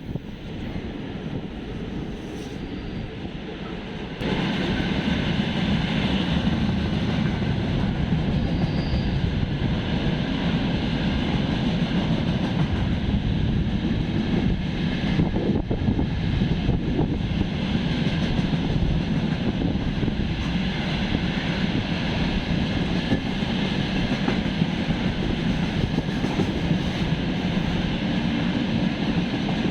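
A train passing close by on the rails. About four seconds in, a loud, steady rumble of wheels on track sets in suddenly and holds.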